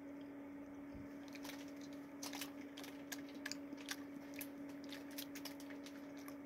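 Faint chewing of gummy fruit snacks: a run of quick wet mouth clicks and smacks starting about a second in, over a steady low hum.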